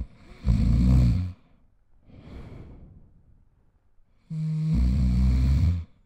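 A person snoring: two loud snores about four seconds apart, with a quieter breath between them.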